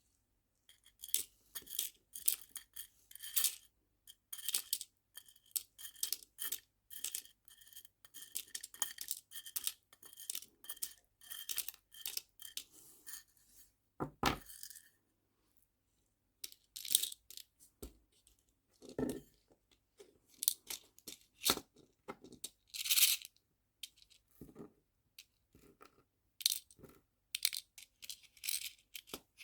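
Small nail charms being handled and sorted into storage boxes: many quick clicks, rattles and little clinks, with a louder knock about fourteen seconds in.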